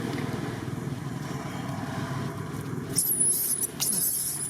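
A motor vehicle's engine running steadily, then from about three seconds in, high-pitched squeals sound over it.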